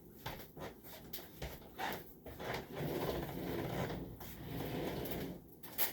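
Faint kitchen handling sounds: scattered light knocks and clicks, with a stretch of rubbing in the middle.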